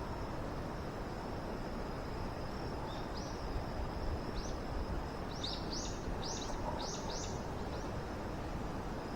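Outdoor ambience with a steady background hiss and a thin, steady high tone. A small bird calls over it in a run of about eight short rising chirps, from about three seconds in until near the end.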